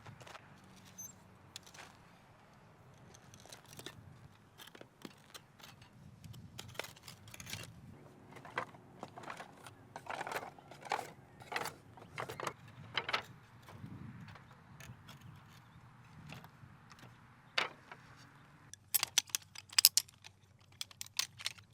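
Camping gear being handled: a run of small clicks, clinks and light knocks, busier in the middle, with a quick flurry of sharp metallic clicks near the end.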